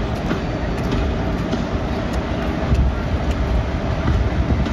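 WAG-7 electric locomotive and its train of empty open coal wagons rolling slowly through yard points, a steady low rumble with scattered clicks of wheels over the switch and crossing joints, growing a little louder about halfway through.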